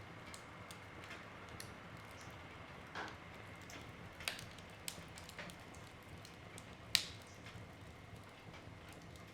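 Wood fire crackling in a fireplace: irregular sharp pops and snaps of burning logs over a soft steady hiss, with a louder pop about four seconds in and the loudest snap about seven seconds in.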